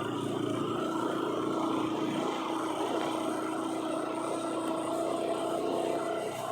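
Bajaj Pulsar RS200's single-cylinder engine running at a steady cruising speed, with wind rushing past.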